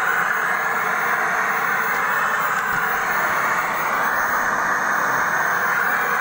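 Steady loud static hiss from an LG 21-inch CRT TV's speaker, the set's volume stuck high, a fault in which it cannot be turned down.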